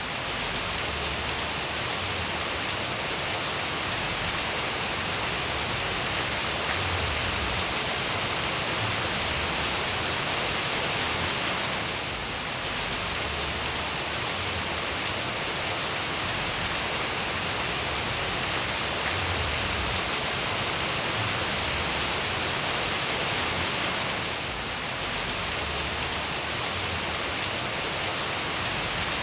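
Steady rain falling, an even hiss of many drops with no single drop standing out. The level dips briefly about twelve seconds in and again near the end.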